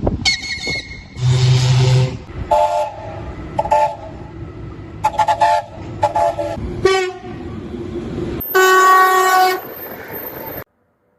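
Railway locomotive horns and whistles: a string of short blasts at different pitches, some sliding in pitch, then a longer, louder horn blast near the end before the sound cuts off suddenly.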